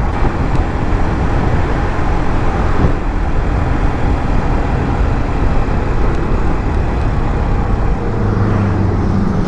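Wind and road noise while riding a 150cc motorcycle at speed, a dense steady rush with the engine running underneath. A steadier low hum comes up about a second and a half before the end.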